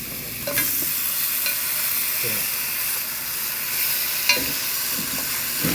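Chicken pieces frying in hot curry in a pot, sizzling more loudly from about half a second in as the chicken goes in and is stirred. A few sharp clinks against the pot, the loudest about four seconds in.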